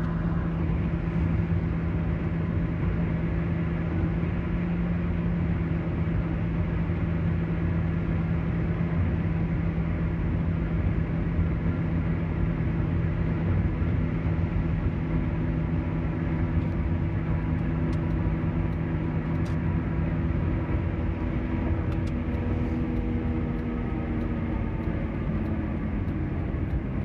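Car road and engine noise heard from inside the cabin while driving: an even rumble with a steady hum. About twenty seconds in, the hum changes to a different set of slightly falling tones.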